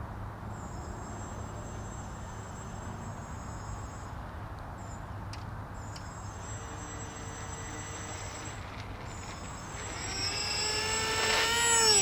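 Electric motor and propeller of an AeroScout RC airplane whining thinly in flight over a steady rushing noise, then rising in pitch and growing much louder over the last two seconds as it throttles up or passes close.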